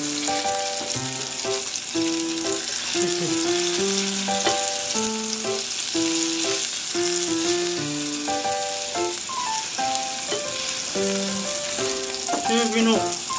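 Tofu hamburger patties sizzling steadily as they fry in oil in a nonstick frying pan. Background music plays a melody of held notes over the sizzle.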